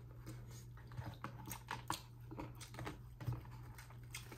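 Eating sounds close to the microphone: soft, irregular clicks and crunches of chewing, over a low steady hum.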